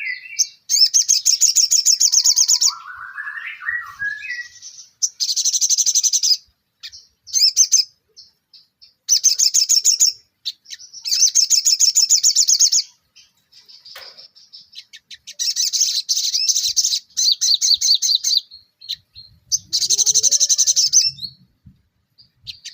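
A sogon songbird singing full song: bursts of rapid, high-pitched trills, each about one to two seconds long, repeated with short pauses. A couple of lower rising whistled phrases come in the first few seconds.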